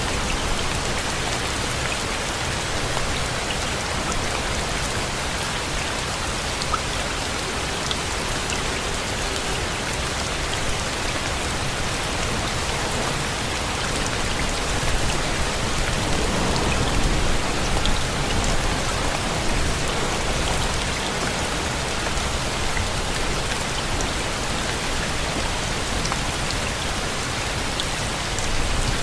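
Steady rain falling: an even hiss with scattered faint drop ticks, swelling slightly about halfway through.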